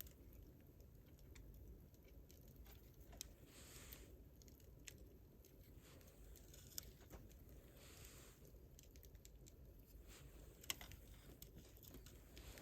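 Wood campfire crackling quietly: scattered small crackles with a few sharper pops, and a soft hiss that swells and fades twice.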